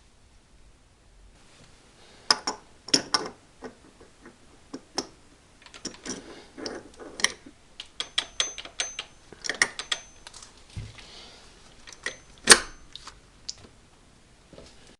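Irregular metallic clicks and clinks of hand tools and small metal parts being handled, with a few brief ringing tones and one sharper clink about twelve seconds in.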